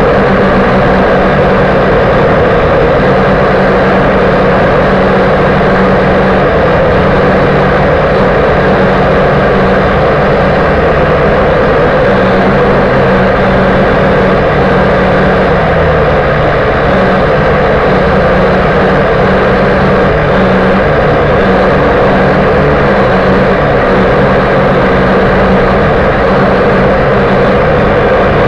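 Steady, loud whir of a V959 quadcopter's small electric motors and propellers, heard close up from its onboard camera. The hum shifts slightly in pitch now and then as the throttle changes.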